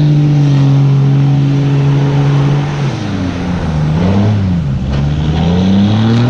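Truck engine held at high revs, easing off about three seconds in, blipped once, then climbing back to high revs near the end.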